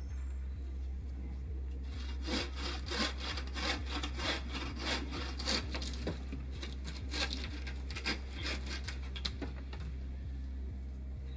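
Hand saw cutting through wood in quick, even back-and-forth strokes, about three a second. It starts about two seconds in and stops around nine seconds.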